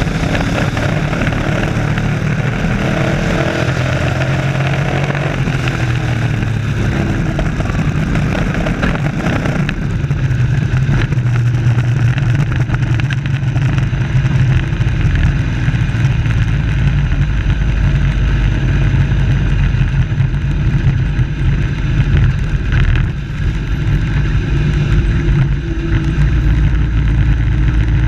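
Race truck engines running at speed in a pack. For the first several seconds several engine pitches rise and fall over one another; from about ten seconds in it settles into a steadier, heavier low drone.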